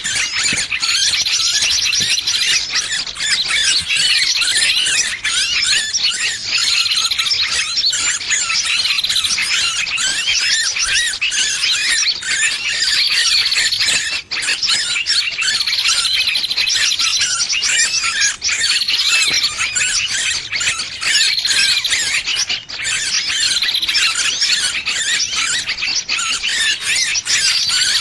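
Distress calls of a small bird caught in a trap, played as a bird lure: continuous shrill squealing chatter with no pause, and a sharper swooping phrase repeating every couple of seconds.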